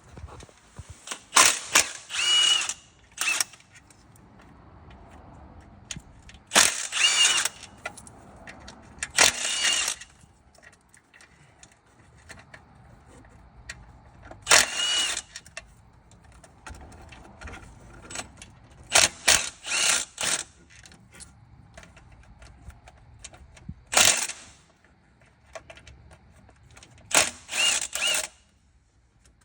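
Handheld power tool, such as a cordless ratchet or drill-driver, run in repeated short bursts of about half a second to a second each, spinning bolts out of the engine. Each burst has a brief whine that rises and falls. Between the bursts there are quieter clinks of tools and parts.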